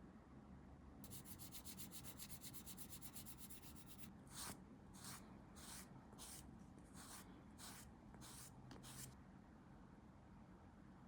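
Faint hand sanding of a small plastic model part: quick short strokes for about three seconds, then about eight slower, longer strokes.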